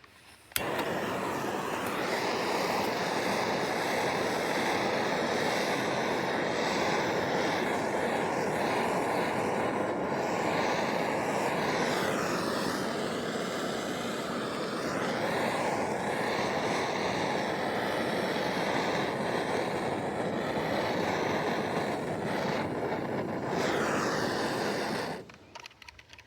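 Steady rushing hiss of air being drawn into the maple sap vacuum line through an open valve. It starts abruptly, dips slightly partway through, and cuts off suddenly near the end.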